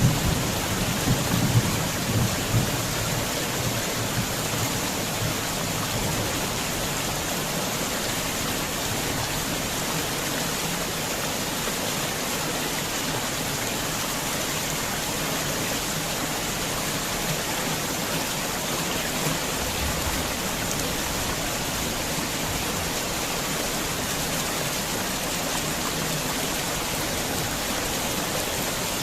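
Heavy rain falling steadily in a dense even hiss. Several low, loud thumps come in the first couple of seconds, then the rain runs on unchanged.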